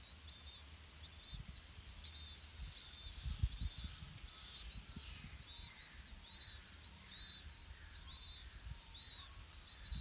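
Short high bird chirps repeated about every half second to a second, with fainter lower falling notes in the middle. Low rustling knocks come around three to four seconds in.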